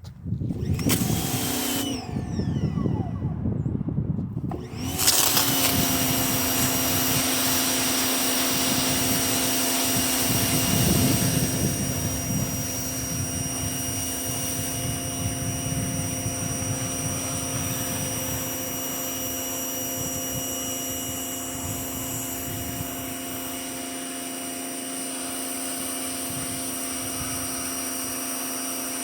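Greenworks 2000 psi electric pressure washer's motor and pump running. It starts in a short burst that stops after a couple of seconds, then starts again about five seconds in and runs steadily with a hiss of spray.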